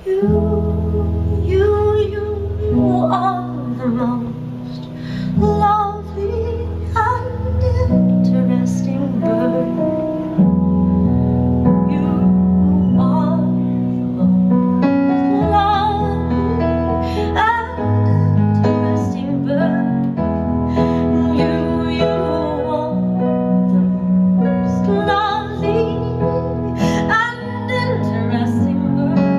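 A woman singing a slow song over keyboard chords in a piano sound. Both come in together at the start.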